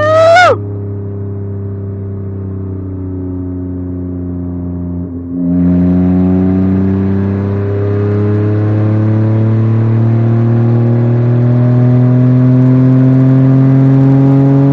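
Muscle car engine and exhaust with a leak where a bolt has fallen out of the precats or J-pipe. It opens with a sharp throttle blip, as in a rev-matched downshift, then runs steadily at lower revs. About five seconds in it gets louder under throttle and the revs climb slowly until it suddenly drops off at the end.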